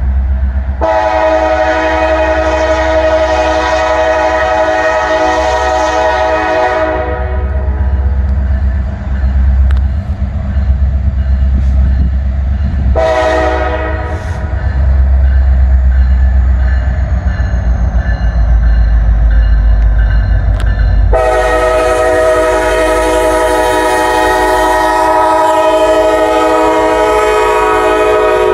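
Multi-chime air horn of a Norfolk Southern freight train's lead EMD SD70ACu diesel locomotive. It sounds a long blast of about six seconds, a short blast about thirteen seconds in, and another long blast starting near the end. Under it runs the steady low rumble of the passing train's diesel engines.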